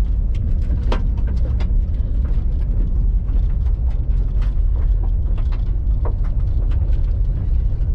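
Car driving over a rough dirt trail, heard from inside the cabin: a steady low rumble with frequent short rattles and knocks as the car bounces.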